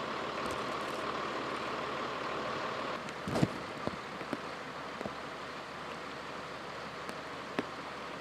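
Steady rushing of water, with one loud short splash about three and a half seconds in and a few light taps after it.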